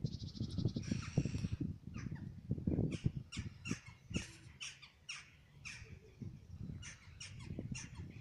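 Birds calling: short, sharp, high chirps repeating every half second or so, with a quick trill about a second in, over a low, uneven rumble.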